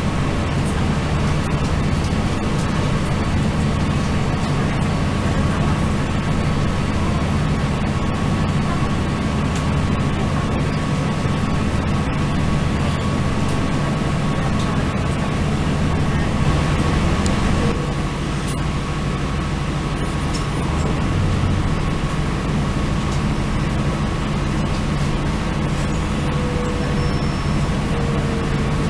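Northern Ireland Railways diesel multiple unit train running: a steady low engine and rolling hum with a thin steady whine above it. The sound dips slightly and changes character about two-thirds of the way through.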